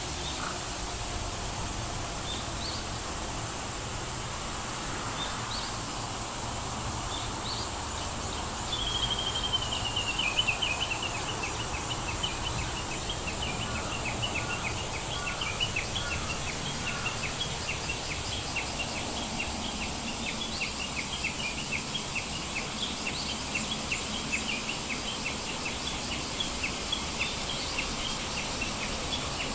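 Birds calling over a steady outdoor hiss: a few short high chirps, then about nine seconds in a fast run of notes dropping in pitch, followed by repeated short chirps.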